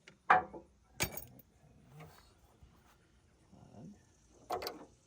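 A few sharp metallic clinks and knocks from hand tools and metal parts being handled: one just after the start, one about a second in, and a quick pair near the end.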